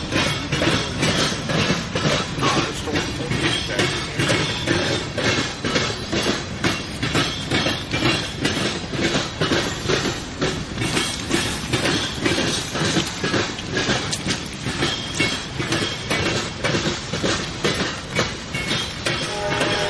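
Freight train's grain cars rolling slowly past, wheels clicking over rail joints in a steady rhythm of about two clicks a second. A train horn starts sounding right at the end.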